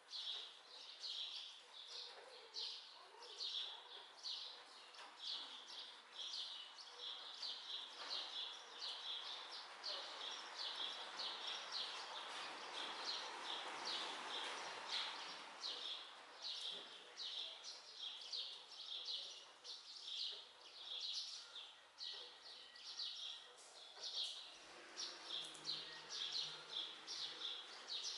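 Short high chirps repeated steadily, two to three a second, over a soft background hiss that swells around the middle.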